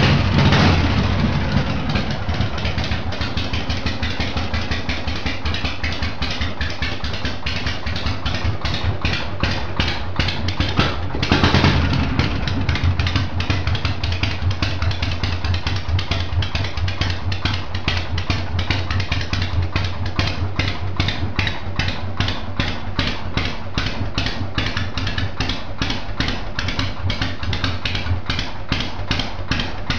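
Motorcycle engine running steadily with an even, regular pulsing beat and a brief louder surge about eleven seconds in.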